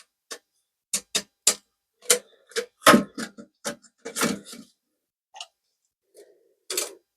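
Irregular plastic clicks and knocks as a toilet fill valve is twisted by hand to raise its height, a dozen or so sharp ticks with a few louder knocks.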